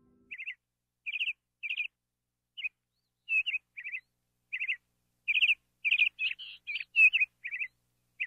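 Small bird chirping: about fourteen short, quick chirps at irregular gaps, louder in the second half.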